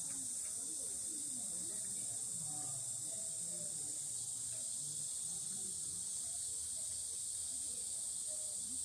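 A steady, high-pitched chorus of insects, such as crickets or cicadas, with faint, distant voices underneath.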